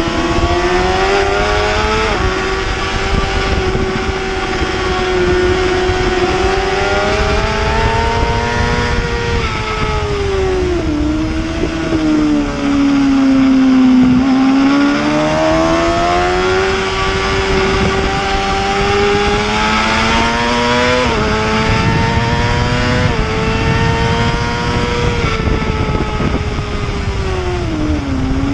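Superbike engine at race pace, revving up through the gears with sudden drops in pitch at each upshift, notably about two seconds in and twice around two-thirds of the way through. The revs fall away as the bike slows, once near the middle and again near the end, then build again. A steady rush of wind runs under it.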